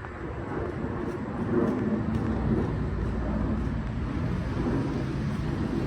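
Metra commuter train pulling out of the station: a steady low rumble with faint engine tones.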